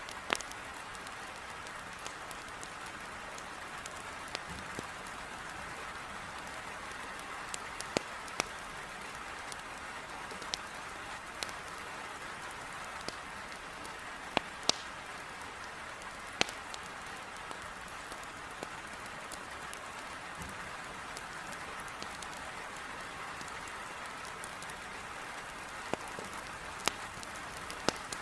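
Heavy rain beating on a window pane as a steady hiss, with sharp crackles and pops from burning firewood in a fireplace scattered irregularly through it.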